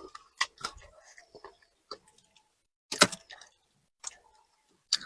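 Close-miked eating: chewing with scattered sharp clicks and knocks, the loudest about three seconds in.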